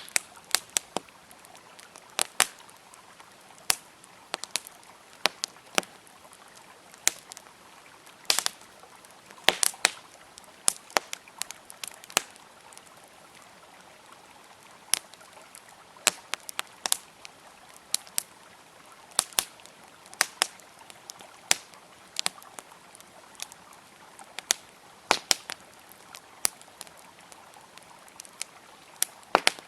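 Wood fire crackling, with sharp irregular pops and snaps over a steady hiss of a flowing river.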